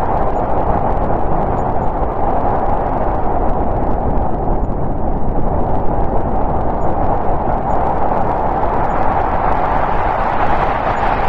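Snowstorm wind blowing steadily as a dense rushing noise with a low rumble beneath, easing a little midway and building again near the end.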